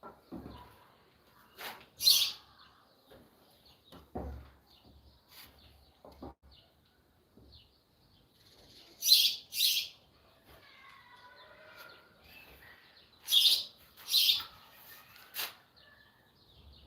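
A small bird chirping in short, sharp calls, several coming in quick pairs, with a soft low knock about four seconds in.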